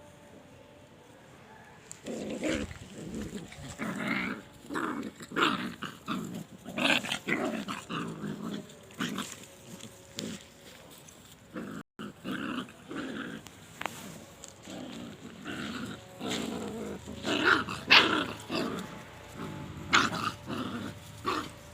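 Puppies play-fighting, growling and snarling in a rapid string of short bursts that starts about two seconds in.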